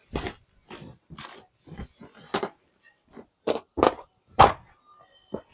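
Bundles of light goods being shoved and trodden down into a cargo space: a run of irregular thuds and rustles, some sharp, with short pauses between.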